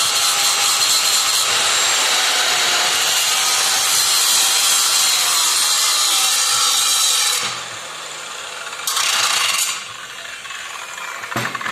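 Angle grinder grinding slag and impurities off a weld's root pass so the joint comes up bright before the fill pass. It runs steadily, stops about seven and a half seconds in, then comes back briefly a second and a half later.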